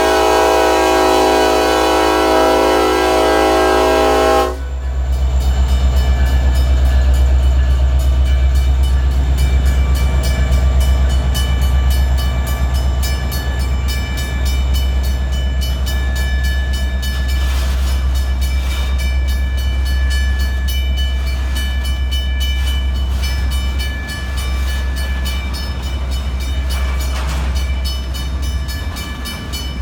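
Union Pacific freight locomotive's air horn sounding a multi-note chord, which cuts off sharply about four and a half seconds in. Then the low, steady rumble of the diesel locomotives and freight cars rolling past.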